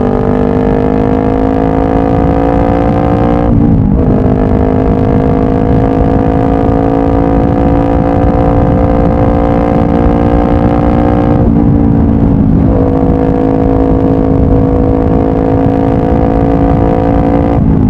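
Honda CBR500R's parallel-twin engine with a Yoshimura full exhaust under way, its pitch climbing slowly as the bike pulls. The revs dip briefly three times, about three and a half seconds in, around twelve seconds in and at the very end, as at gear changes.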